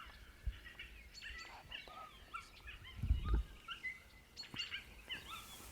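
Songbirds chirping and singing, many short overlapping calls throughout, with a low thump about three seconds in.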